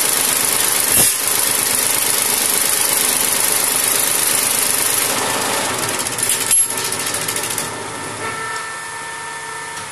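Tractor diesel engine running steadily, with a sharp click about a second in. Past the middle there is a clatter, then the running gets quieter as it winds down.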